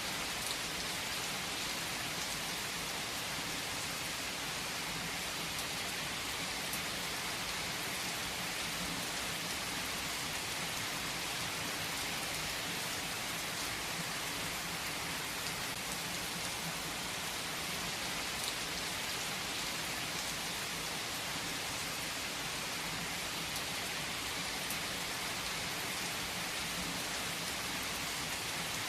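Steady rain falling on a surface: an even hiss of rain, with a few distinct drop ticks here and there.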